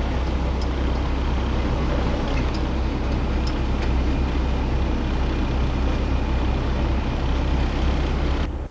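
A car being driven, heard from inside: a steady low rumble of engine and road noise, with a few faint ticks. It cuts off abruptly near the end.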